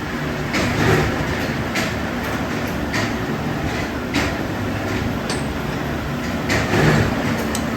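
Metalworking machinery running steadily, with sharp metal clanks at fairly even intervals of a little over a second.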